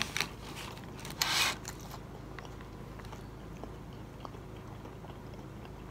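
Biting into and chewing fried catfish: a few short crunchy noises in the first second and a half, then only faint chewing.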